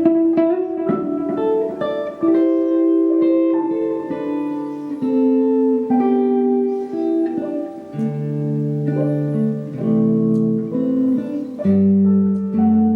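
Band music led by plucked guitar, with held notes and chords changing every second or so.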